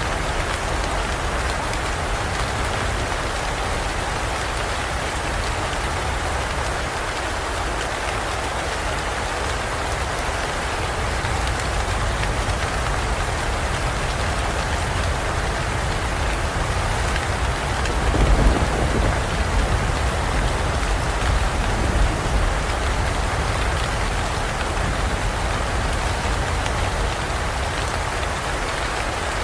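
Steady rain pouring down in a forest, with a short low rumble of thunder about two-thirds of the way through.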